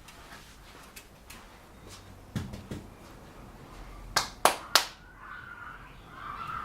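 Three sharp clicks or snaps in quick succession, about a third of a second apart, after a couple of soft knocks.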